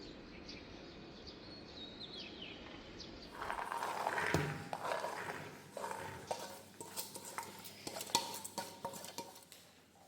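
Light clatter of household things being handled: a run of small clicks and knocks starting about four seconds in and fading out near the end.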